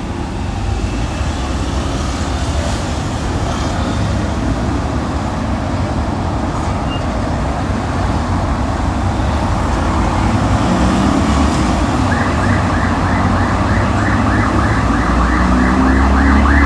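Heavy truck engine running with a deep rumble amid traffic noise, growing louder. In the last few seconds a siren joins in, repeating quickly at about four pulses a second.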